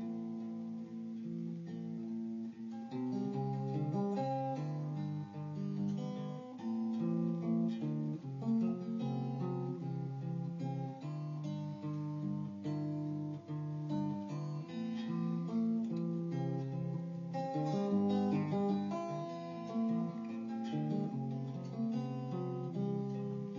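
Guitar playing an instrumental passage of strummed chords and held picked notes that change every second or so.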